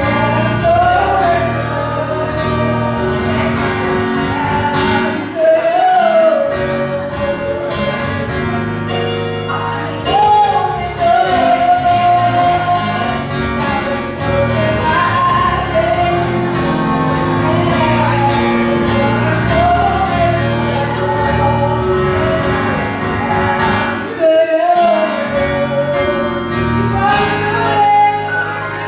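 Gospel singing with musical accompaniment: a lead voice carrying a slow melody over sustained chords, with a choir sound behind it.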